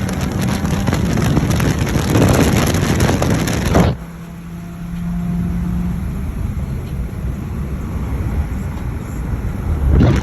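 Car engine running hard under acceleration with heavy wind noise, dropping off sharply about four seconds in as the throttle is lifted, then running steadily again and gradually building.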